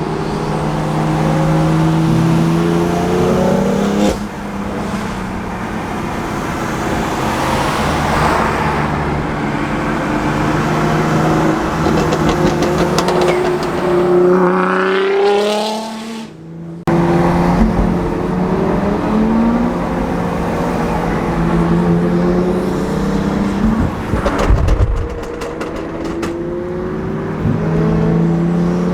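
Sports car engines running and revving loudly, with cars accelerating past; about halfway through, one engine's pitch climbs steeply as it accelerates hard. A quick run of sharp cracks comes near the end.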